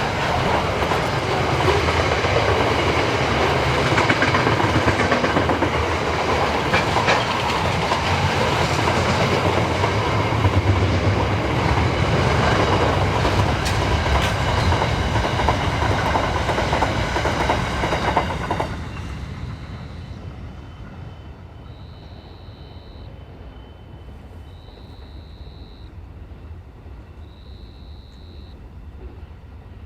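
Freight train wagons rolling past on the rails with a steady clickety-clack, the noise dropping away suddenly a little past halfway. After it, quieter background with a short high beep repeating every few seconds.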